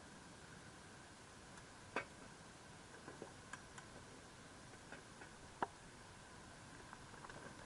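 Wood campfire crackling: scattered sharp pops and ticks, two louder ones about two seconds and five and a half seconds in, over a faint steady hiss.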